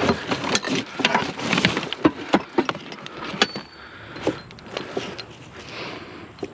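Irregular knocks and clatter of junk being handled and shifted while someone picks through a curbside pile. It is busiest in the first three seconds, then sparser.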